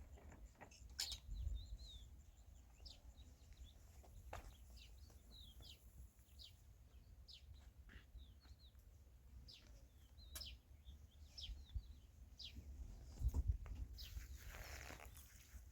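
Faint birds chirping, with many short scattered calls, a few sharp clicks and a brief rustle near the end.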